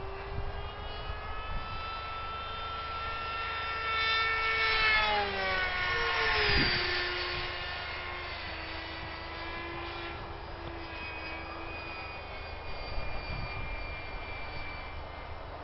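Electric radio-controlled model planes whining as they fly overhead. One makes a close pass about five to seven seconds in: its whine grows louder, then drops sharply in pitch as it goes by.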